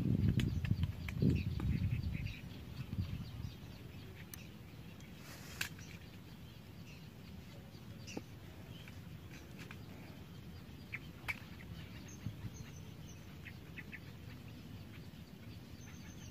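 Scattered faint chirps and calls of birds in the open, with a low rumble in the first two seconds.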